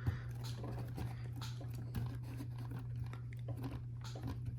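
Faint clicks and rustles of plastic LEGO pieces being handled and pressed together, over a steady low hum.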